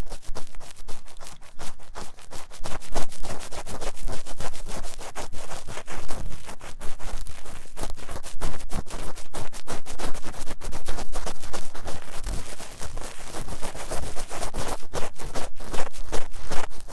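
Ear-cleaning tool scratching fast and hard inside the ear of a 3Dio binaural microphone: rapid, close-up scraping strokes.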